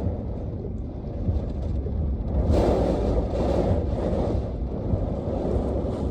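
Severe storm wind gusting in a steady low rumble, swelling in a stronger gust about two and a half seconds in.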